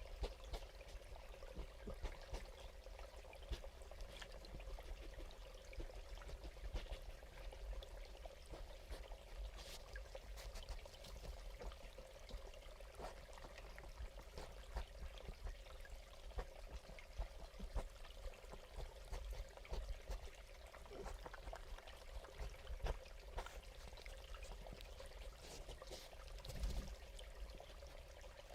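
Faint trickling and dripping water, with many small scattered ticks over a low steady rumble.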